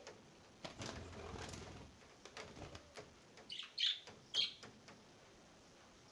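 Caged birds: a flutter of wings for about a second near the start, scattered light clicks, then three short, high chirps about halfway through, the loudest sounds here.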